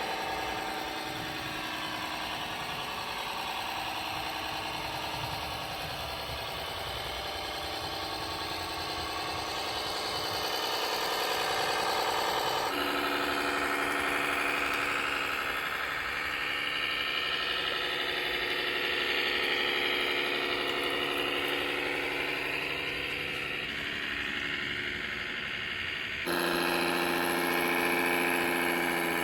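Simulated diesel tractor engine noise played through an RC model's onboard sound-module speaker, running steadily; the engine note changes abruptly twice, about halfway through and near the end.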